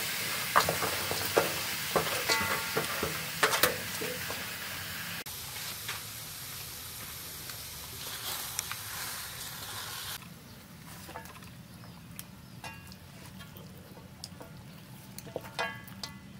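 Pineapple and onion sizzling in a hot steel wok, with sharp metal clinks and scrapes of a steel tray against the wok in the first few seconds. The sizzle drops off abruptly about five seconds in and again about ten seconds in, leaving quieter scattered clicks of handling.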